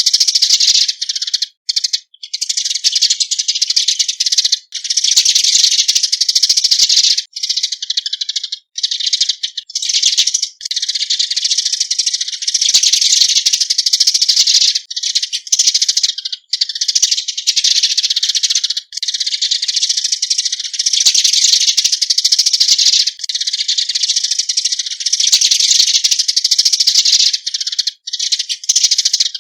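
Eurasian tree sparrow flock call: a dense, rapid stream of harsh high chirps and chatter, broken by brief pauses every couple of seconds.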